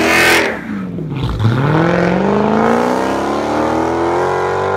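A car engine accelerating hard as the car pulls away, starting with a loud noisy burst, dropping in pitch briefly about a second in, then rising steadily in pitch through one long pull.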